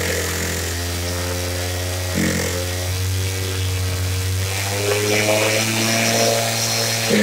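Stihl TS 760 AV two-stroke concrete cut-off saw engine running at a steady speed, its pitch rising a little about two-thirds of the way through.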